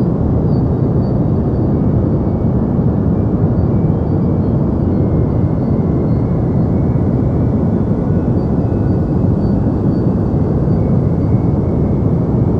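Continuous deep white noise for sleep: an even, unchanging rush of noise weighted toward the low end, with little treble.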